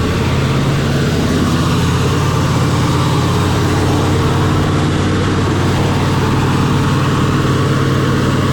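Heavy off-road truck engine running loudly at a steady pitch.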